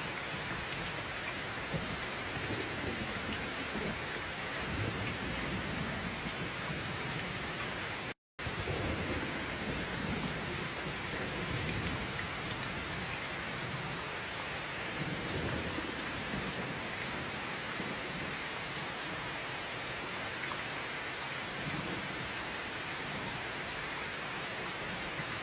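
Steady heavy rain hissing, with low rumbles coming and going underneath; the sound cuts out completely for a split second about eight seconds in.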